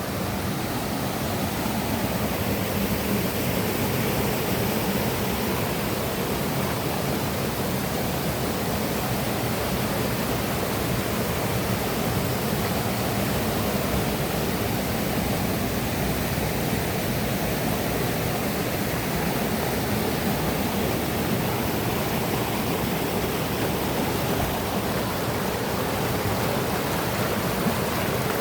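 Steady rush of a mountain river's flowing water, an even wash of sound with no break.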